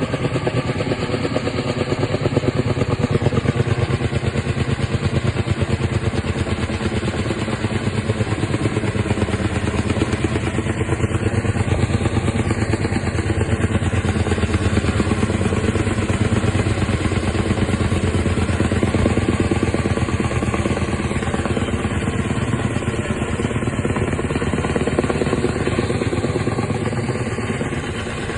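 Helicopter running close by and holding steady, a rapid rotor chop over a steady engine drone.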